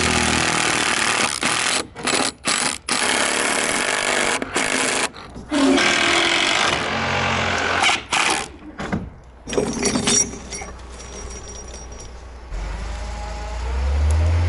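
Power driver running in repeated bursts of about a second, driving screws into structural insulated roof panels. It stops after about ten seconds, and a low steady engine rumble comes in near the end.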